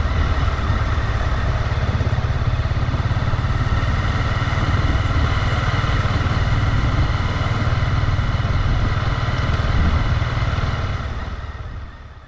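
Honda CB250R's single-cylinder engine running steadily under way, heard from the bike itself; the sound fades out near the end.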